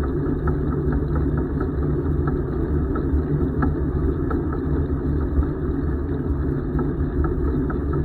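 Steady low rumble from a bicycle being ridden, with wind on the microphone and tyre noise, and faint irregular light ticks.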